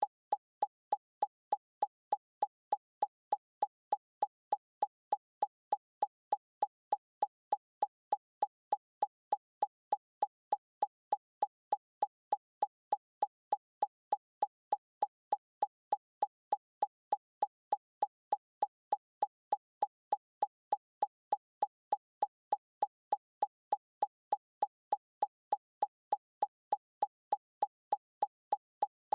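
A short electronic plop sound repeating at an even pace, about three times a second, each blip identical in pitch and loudness.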